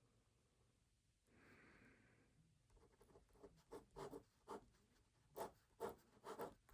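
Pen writing on paper: a short rustle of paper, then a run of quick, irregular pen strokes that grow louder near the end.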